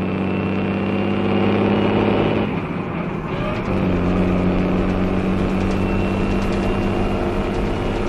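Motor vehicle engine running steadily on the road. Its hum breaks off briefly about two and a half seconds in, then settles back a second later.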